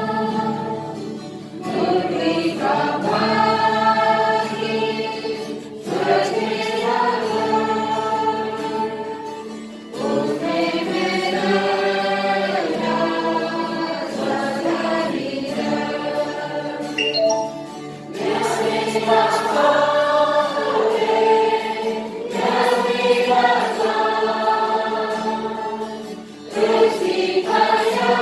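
A group of voices singing a Christian hymn together, in sung phrases several seconds long with short breaks between them.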